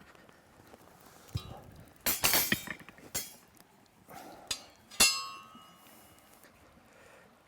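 Hard objects being handled: a few knocks and a short scraping burst, then a sharp clink about five seconds in that rings on briefly.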